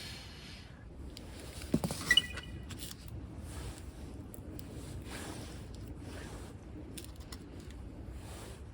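Light handling knocks and clicks, with a sharp metallic clink about two seconds in that rings briefly.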